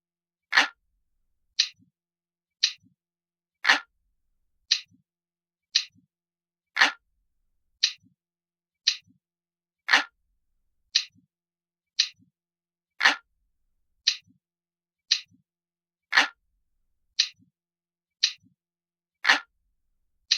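Analog-style clock ticking sound effect, steady at about one tick a second. Every third tick is louder and fuller, and each tick has a faint small click just after it.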